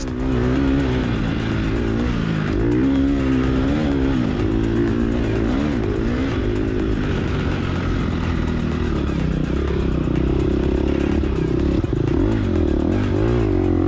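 2022 Gas Gas EX250F dirt bike's single-cylinder four-stroke engine, revving up and down continuously as it is ridden.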